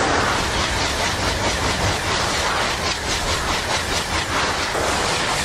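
High-speed train passing at speed: a loud rush of air and wheel noise, with a rapid, even clatter of wheels over the track in the middle.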